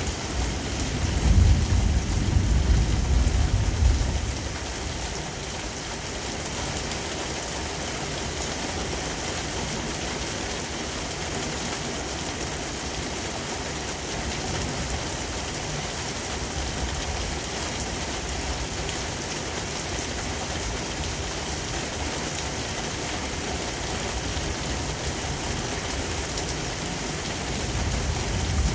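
Steady heavy rain falling, an even hiss throughout. A low rumble swells over the first four seconds and another begins near the end.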